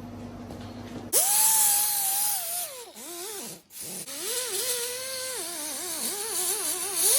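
High-speed handheld rotary tool starting up about a second in with a rush of hiss, its whine sweeping up and then wavering in pitch as it is worked against the engine, dropping out briefly near the middle.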